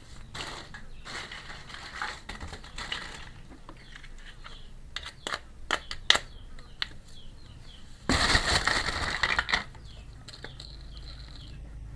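Hands unboxing a miniature plastic toy kitchen set: small pieces clicking and tapping, with a louder stretch of packaging handling noise lasting about a second and a half, about two-thirds of the way through.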